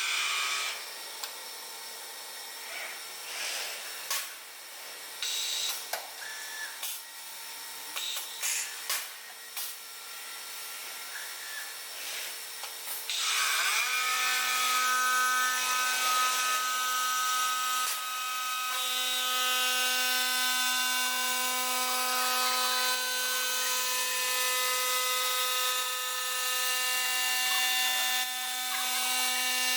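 5-axis CNC stone-working machine at work. Irregular clicks and grinding noise give way, about halfway through, to a louder, steady high whine with several held tones as the tool spindle runs on.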